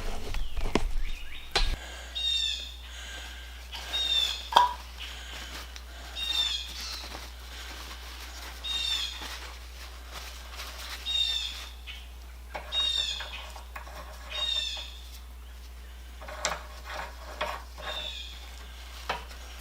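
A songbird singing the same short chirping phrase over and over, about every two seconds. A few sharp clicks, like metal parts being handled, come in the first two seconds and again about four and a half seconds in.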